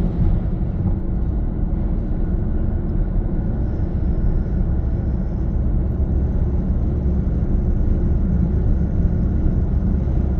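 2021 Toyota Corolla (Suzuki Swace) running, a steady low rumble of car noise. A faint high whine joins about four seconds in.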